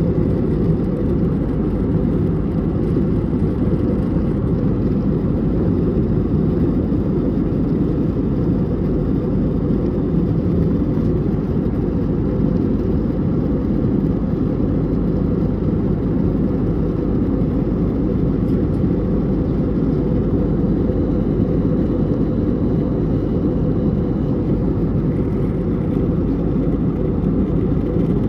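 Steady drone of an Airbus A320neo heard inside the passenger cabin during the climb after takeoff: engine and airflow noise, deep and even, with no change in level.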